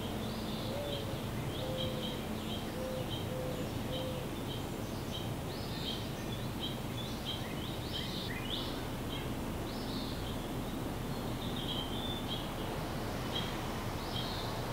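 Small birds chirping: many short, high chirps, busiest in the middle, over a steady background hum.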